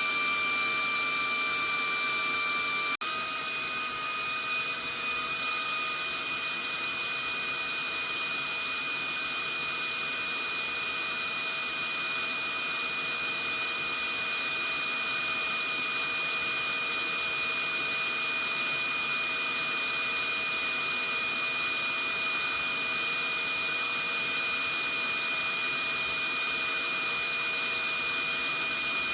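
Vacuum cleaner running steadily: a constant rushing motor noise with high-pitched whines. About three seconds in it breaks off for an instant and resumes with its whine a little higher and slightly louder, then settles back to a steady level.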